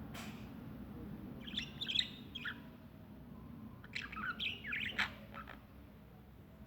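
A small bird chirping in two short bursts of quick twittering, the first about a second and a half in and the second about four seconds in.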